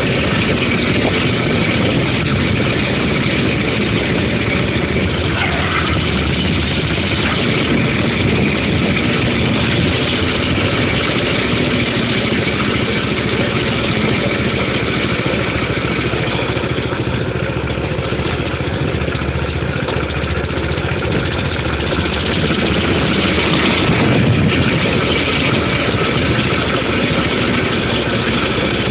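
Dirt bike engine running steadily, getting a little louder about three-quarters of the way through.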